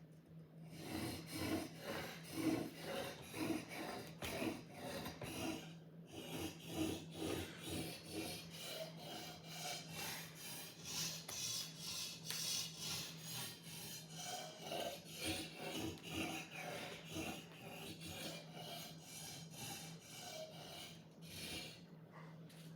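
Sword blade being sharpened: a long run of repeated rasping strokes, about two a second.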